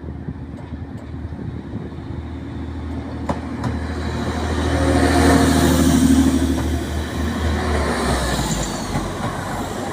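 Class 185 diesel multiple unit pulling out of a station, its underfloor diesel engines working under power. The engine note grows louder to a peak about halfway through, then eases a little.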